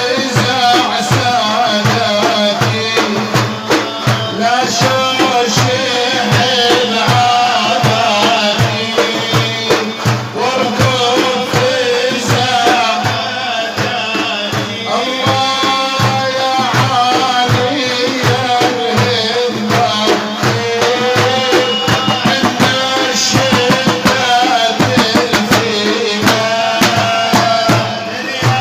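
Arabic chanted qasida: a melody wavering in pitch, sung over a steady, fast hand-drum beat.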